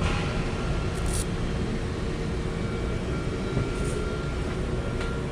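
Yamaha XSR 155's single-cylinder engine running during a ride, heard from a GoPro on the bike, under a steady rough rumble of road noise, with two brief hissing sounds, one about a second in and one near four seconds.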